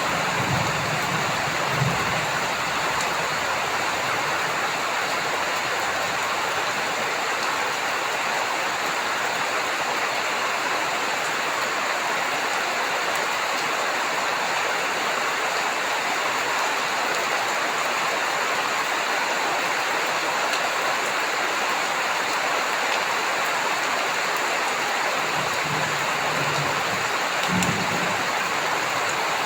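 Steady heavy rain falling, with brief low rumbles of thunder about a second in and again near the end.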